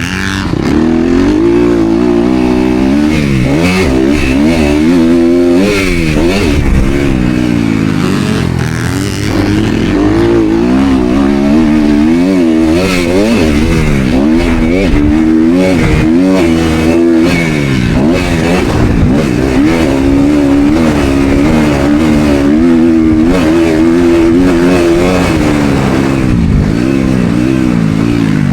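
Motocross dirt bike engine revving hard and repeatedly, its pitch climbing and dropping again and again as the rider opens and closes the throttle and shifts around the track.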